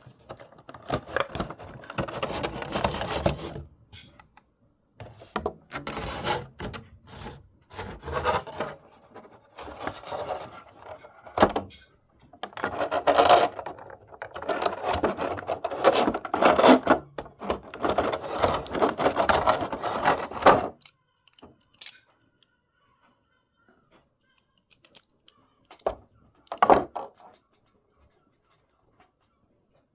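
Perfume box and packaging being handled and opened: irregular rubbing, scraping and knocking in bursts for about twenty seconds, then mostly quiet apart from one short burst of handling near the end.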